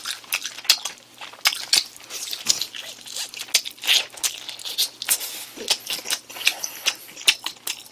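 A person biting and chewing crunchy food close to the microphone: a run of quick, irregular crunches with wet mouth sounds.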